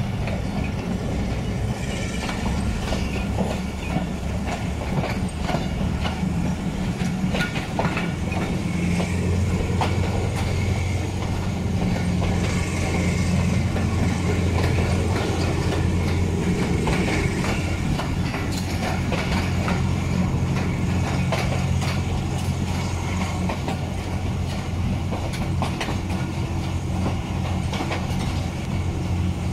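Passenger train coach running along jointed track, its wheels clicking and knocking over the rail joints above a steady low running drone that grows louder about nine seconds in.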